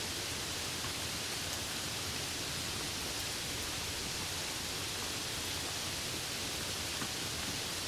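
Steady rain falling, an even hiss with a few faint patters and no change in level.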